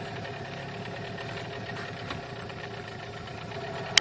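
New outboard boat motor running steadily during its break-in, with one sharp click just before the end.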